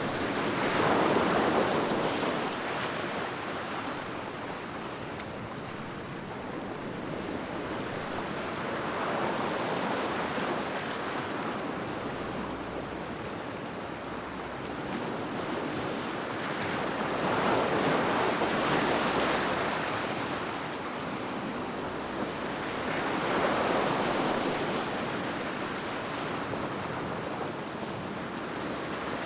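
Sea waves breaking and washing ashore in a continuous rush, swelling four times as waves come in.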